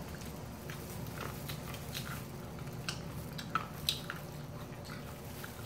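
Close-up chewing and biting of crispy fried chicken coated in wasabi powder, with short, sharp crackles of the crust scattered through, over a steady low room hum.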